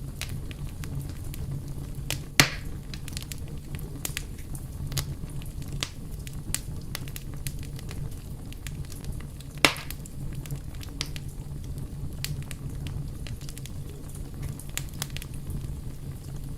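Fire crackling and burning steadily, with scattered small snaps over a low rumble and two louder pops, one a couple of seconds in and one near the middle.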